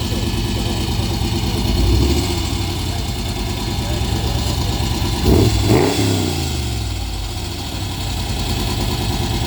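Shelby Cobra prototype's 289 V8 idling, with a quick throttle blip about five seconds in that rises and falls in pitch.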